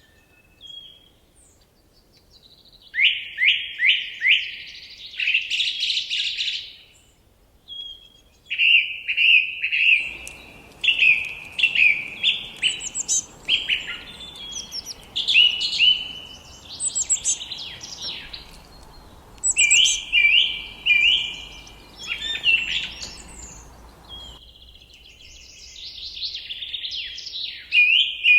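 Forest songbirds singing, with phrases of quick, high descending notes repeating with short pauses between. A faint low hiss comes in suddenly about a third of the way through and cuts off near the end.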